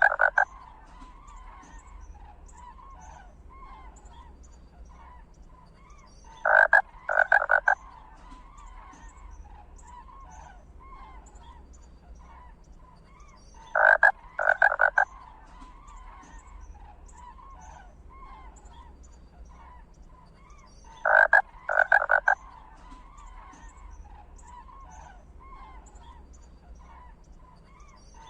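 Loud croaking animal calls in clusters of two or three, the same pattern recurring about every seven seconds, over faint scattered chirping.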